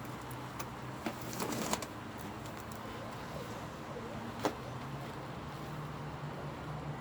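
A steady low engine hum, with a few knocks and clatters about a second in and a sharp click about four and a half seconds in.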